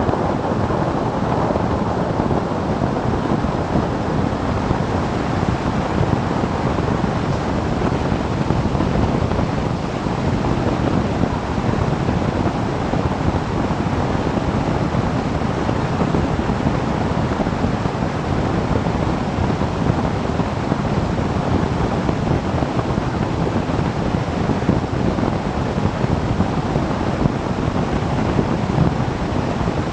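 Steady wind rush over the microphone of a motorcycle travelling at speed, blended with engine and road noise, even and unbroken throughout.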